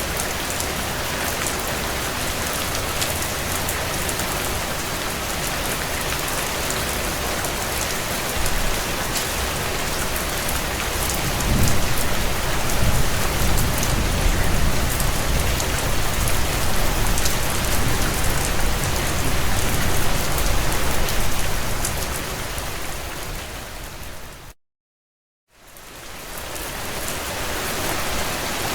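Heavy rain drumming steadily on a tin roof, a dense patter of drops. It grows louder and deeper about a third of the way in. Near the end it fades out to about a second of total silence, then fades back in.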